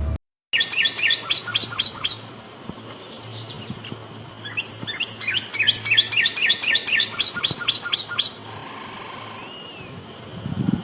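Northern cardinal singing: two phrases of rapid, evenly repeated down-slurred whistles, the second phrase longer.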